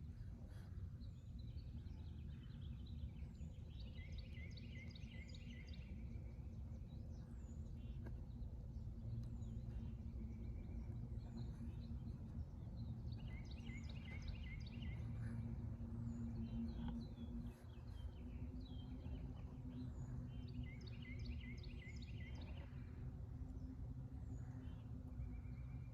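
Songbirds singing: one bird repeats a rapid series of high notes about every eight seconds, a couple of seconds each time, while other birds give scattered short chirps, all over a steady low rumble.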